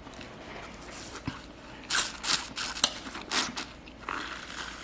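Biting into a piece of juicy watermelon and slurping the juice from it, a run of short wet sucking and crunching sounds in the second half.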